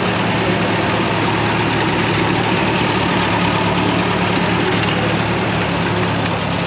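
Tractor engine running steadily, an even drone that neither rises nor falls.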